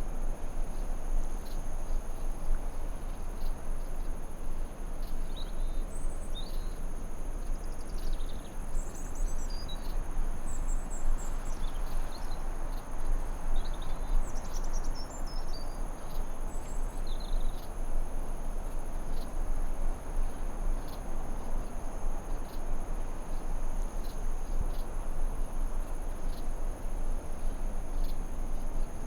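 Forest ambience: a steady high-pitched insect drone over a soft, even rushing noise, with short high bird chirps scattered through the middle stretch.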